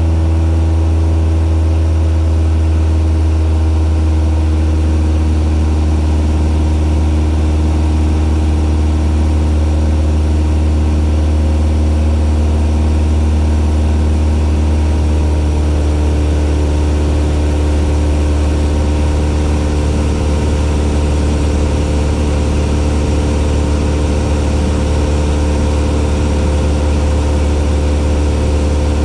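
A Cessna 172's piston engine and propeller running steadily with a deep, even drone, its tone shifting slightly about halfway through.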